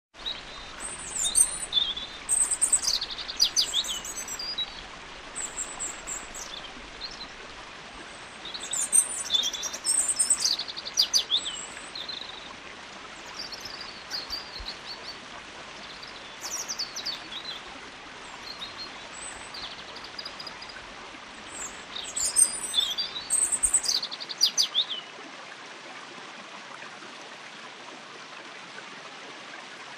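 Flowing stream water making a steady rush, overlaid by a songbird whistling its song in short phrases of quick, high, falling notes. The birdsong stops about 25 seconds in, leaving only the water.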